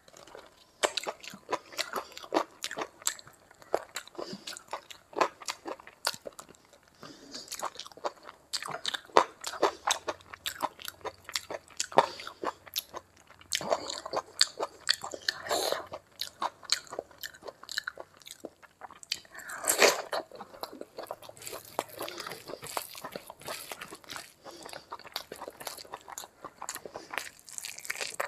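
Close-miked eating sounds: a person biting and chewing chicken, curried egg and rice eaten by hand, with many quick, wet mouth clicks.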